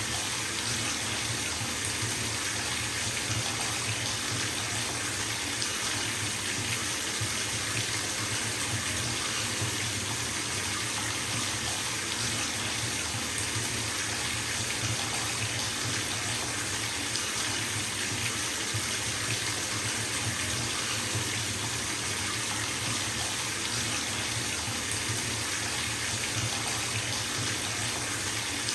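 Bathtub tap running full, water pouring into a filling tub in a steady, even hiss with a low rumble underneath.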